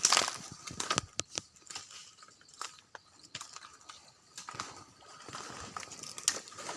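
Footsteps crunching through dry leaf litter, an uneven run of crackles and rustles, louder at the start and again near the end.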